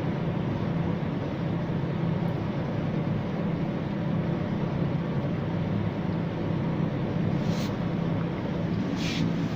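Steady mechanical hum and low drone inside a moving Ferris wheel cabin, with two short hisses near the end.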